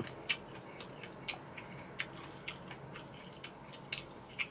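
Faint mouth sounds of chewing food: short, irregular wet clicks and lip smacks, about one a second, over a low steady hum.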